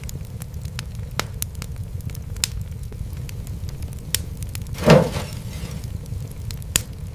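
Fire in a fireplace crackling, with irregular sharp pops over a steady low rumble. One louder, fuller pop with a brief hiss comes about five seconds in.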